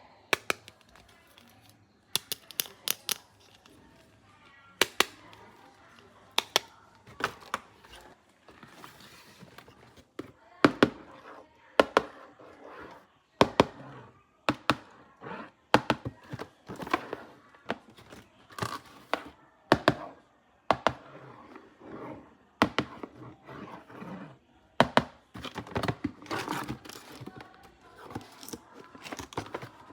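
Plastic toys and their packaging being handled: irregular sharp clicks, snaps and knocks, some of them loud.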